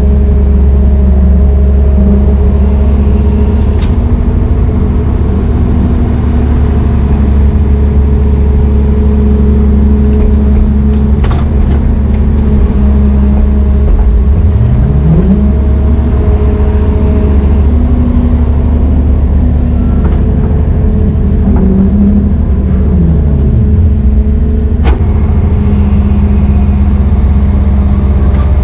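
Brøyt X21 excavator's diesel engine running steadily under load, its speed rising and falling a couple of times as the machine works. A few sharp knocks of metal on metal come through.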